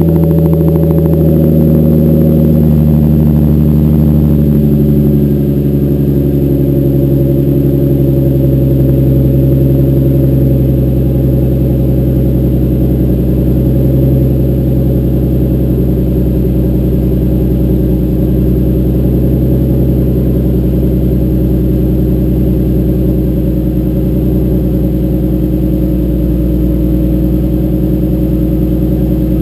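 Nissan 350Z's 3.5-litre VQ35HR V6 idling through a Motordyne TDX2 exhaust with ART pipes after a cold start. The raised cold idle drops a little and gets slightly quieter in the first few seconds, then runs steady.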